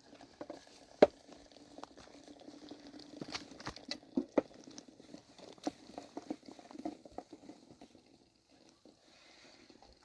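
Irregular light knocks, clicks and rustling of things being handled, with one sharp knock about a second in; it falls quieter near the end.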